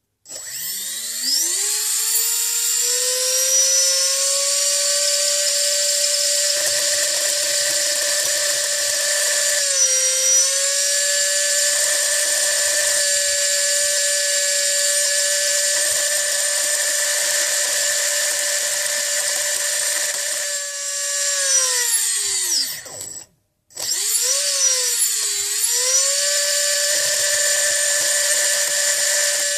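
Brushless electric motor driven by a HobbyKing boat ESC, whining as it spins up quickly and holds a steady speed with a brief dip about ten seconds in. It winds down and stops briefly, then spins up again with a wavering pitch before settling. The owner complains of non-linear power delivery and excessive vibration at certain rpm.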